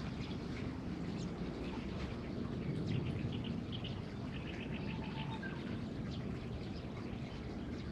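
Birds chirping and calling, with a couple of short whistled notes about five seconds in, over a steady low background rumble.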